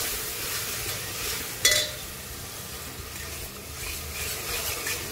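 Onions, tomatoes and ground spices sizzling in ghee in a steel pressure cooker while a spatula stirs them, with one sharp metallic knock of the spatula on the pot about a second and a half in.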